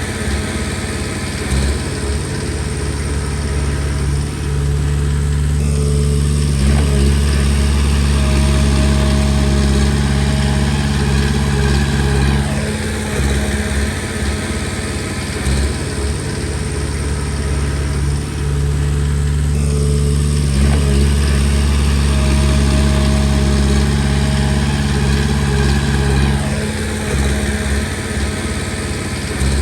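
Komatsu D20P bulldozer's diesel engine running steadily under work, its sound shifting in a repeating cycle about every seven seconds, with brief changes in pitch at each turn.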